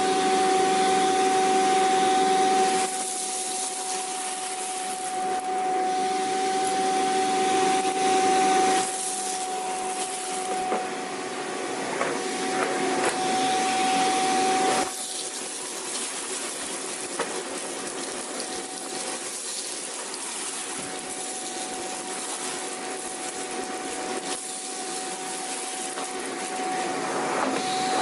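Vacuum cleaner running steadily, a constant high motor whine over a rushing of air. Its loudness and tone shift a few times, dropping noticeably about three, nine and fifteen seconds in.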